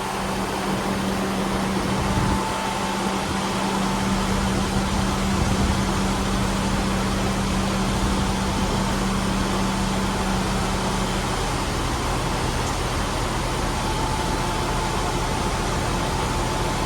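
Class 158 diesel multiple unit idling at the platform: a steady engine hum. A low steady tone in it stops about eleven seconds in.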